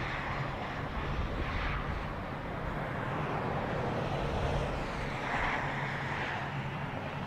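Steady outdoor background rumble with a faint low hum, swelling slightly a few times.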